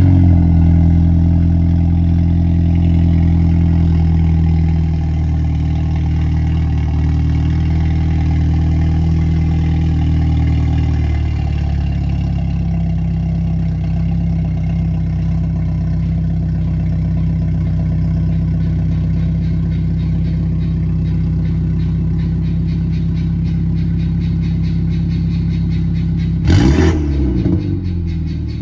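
BMW 320i's turbocharged four-cylinder engine, remapped with a downpipe and sport muffler and its exhaust cutout open, running loud at a raised cold-start idle just after firing up. The idle settles lower in steps, after about five and about twelve seconds, and two quick revs come near the end.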